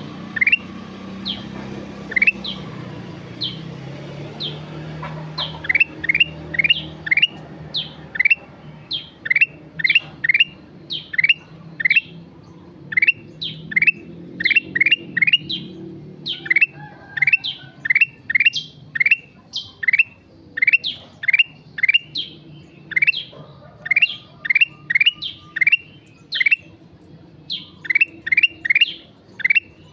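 Kutilang emas bulbul singing continuously, a rapid run of short, sharp whistled notes that sweep upward, alternating between a lower and a higher pitch at about two to three notes a second. A faint low hum lies underneath.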